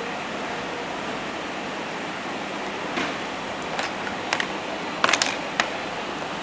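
A steady hiss with a handful of short, sharp clicks and taps in the second half, the loudest few together just after the middle.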